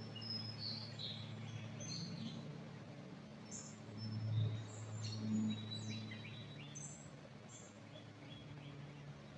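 Small songbirds chirping and trilling in short, scattered calls, over a steady low hum that swells briefly about four seconds in.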